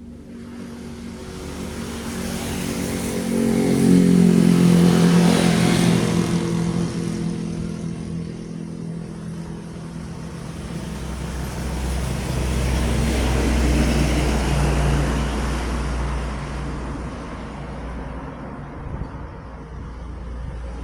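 Heavy trucks passing by on a road, one after another: engine drone and tyre hiss rising to a peak about four to six seconds in, then a second pass with a deep rumble around twelve to fifteen seconds in.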